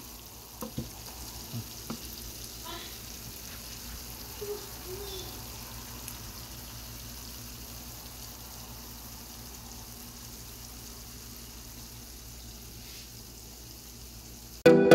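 Beef kala bhuna frying in a pan, with a steady low sizzle. A wooden spatula stirs and knocks against the pan a few times in the first two seconds. Music starts suddenly just before the end.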